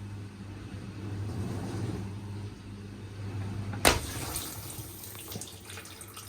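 Bauknecht BSFC 3M19 dishwasher running: a steady mains hum from its circulation pump, with water rushing and splashing inside. A single knock comes about four seconds in, and after it the water noise turns brighter.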